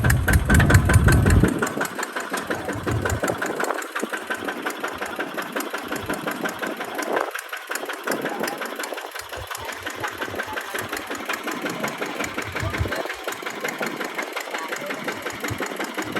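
Kubota tractor's diesel engine running with a rapid, even knocking beat. A heavy low rumble fills the first second and a half, then the engine settles to a lighter running note.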